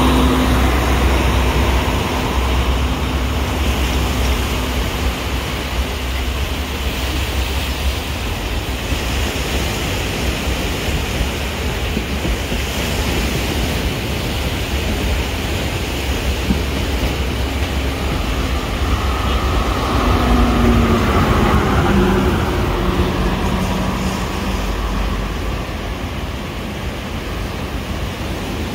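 Diesel passenger train running past on the track, a steady rumble of engine and wheels on rail with a faint engine hum that shifts slightly in pitch about two thirds of the way through.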